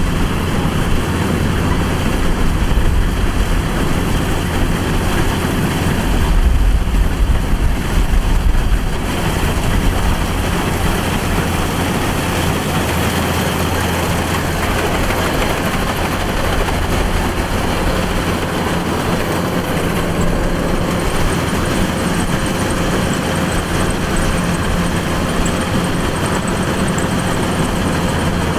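Kubota DC-105X combine harvester running steadily, a diesel engine's low drone under a broad rushing noise, swelling briefly about a quarter of the way in.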